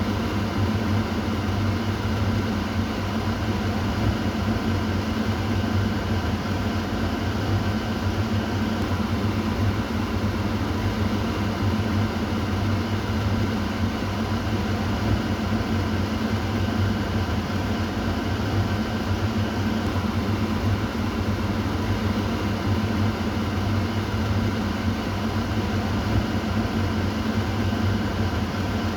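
Kitchen exhaust fan running steadily: a constant motor hum with a whooshing rush of air and faint steady whining tones above it.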